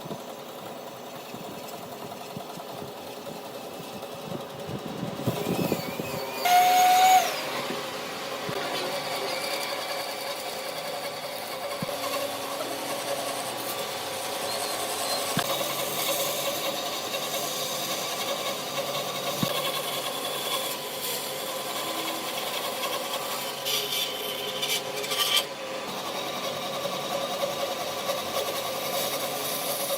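Woodworking power tool running on wood, a steady motor hum with scraping and rubbing. There is a brief louder, whistling burst about seven seconds in.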